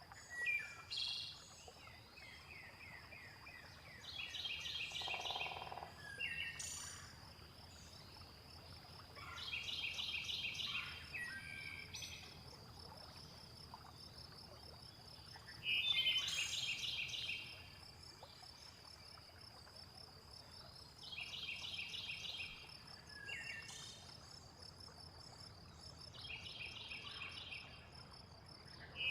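Looped nature ambience of calling frogs, insects and birds. A steady high insect trill runs beneath a pulsed call about a second long that repeats every five to six seconds, with short falling chirps between the calls.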